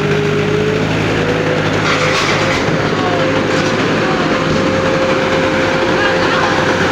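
Heavy vehicle engine running steadily, with a steady whine above it that rises slightly in pitch in the first second.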